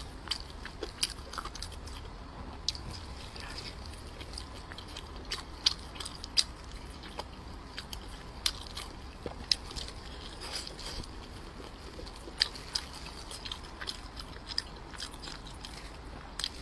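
Close-miked chewing of a large steamed dumpling, with many sharp wet mouth clicks and smacks at irregular intervals.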